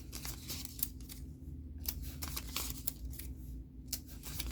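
Crisp rustling and short sharp clicks of scratch-off sticker paper being handled and applied to a page.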